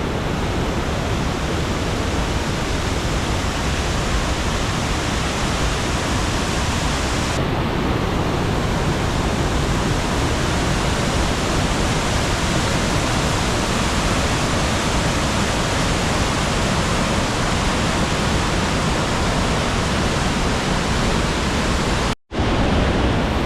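Waterfall in spate after heavy storm rain, a loud, steady rush of falling water. It grows brighter and hissier about seven seconds in, and breaks off for a moment near the end.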